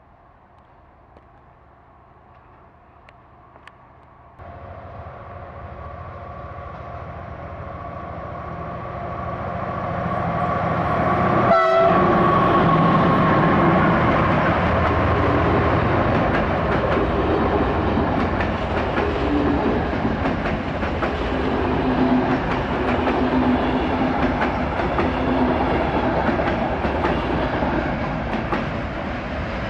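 A train approaching and passing close by: its noise builds over several seconds to a peak about twelve seconds in, then continues as loud steady running noise with wheel clatter over the rail joints.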